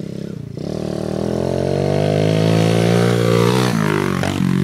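Pit bike engine revving up, its pitch climbing steadily for about three seconds, then the throttle comes off and the pitch drops sharply near the end.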